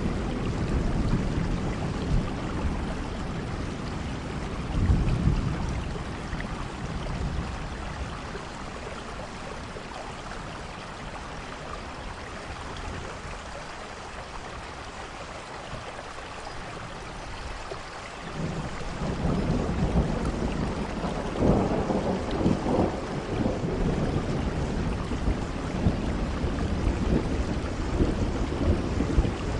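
Steady rain falling in a thunderstorm, with rolling thunder. Rumbles at the start and about five seconds in die away, then a long rumble builds up about two-thirds of the way through.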